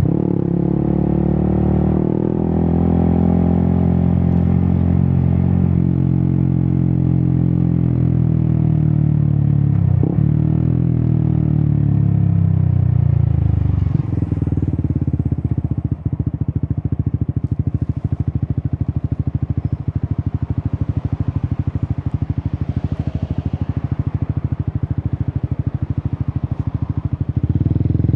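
Yamaha XSR 155's single-cylinder engine through an Akrapovic exhaust, revving up and easing off with a sharp dip in pitch about ten seconds in. From about fourteen seconds it runs steadily at low revs with a fast, even pulse, and picks up again briefly near the end.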